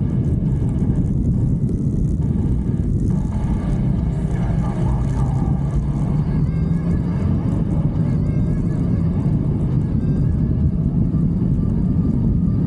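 Motorcycle engine running steadily while riding, a constant low drone mixed with rushing wind on the microphone.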